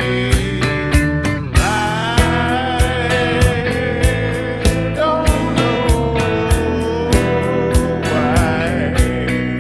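Live rock band playing with a steady drum beat, electric guitar and a singing voice.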